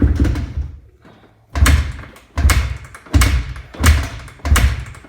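2007 Honda CRF250R's single-cylinder four-stroke engine being kick-started cold with no choke and the fuel turned off: a loud burst dying away, then five sharp bursts about every 0.7 seconds as the engine turns over and fires briefly.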